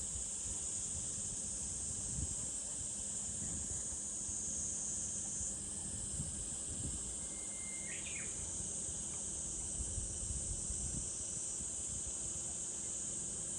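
Cicadas singing in a steady, high, continuous chorus, with one short bird call about eight seconds in and an irregular low rumble underneath.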